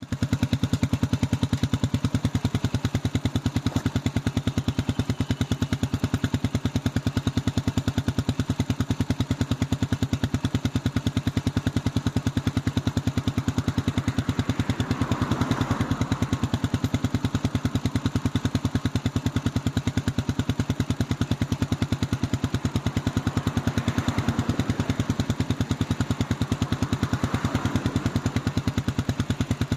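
Exhaust of a carbureted Kawasaki Estrella 250cc single-cylinder motorcycle idling steadily, an even run of fast, low exhaust pulses.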